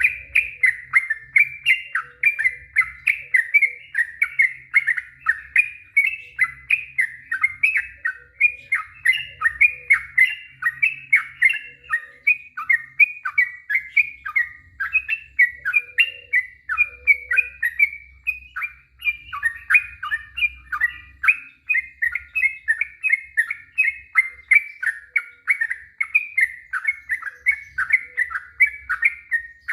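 Yellow-vented bulbul (cucak trucuk) singing a long, unbroken run of quick notes, about three a second, each a short falling chirp.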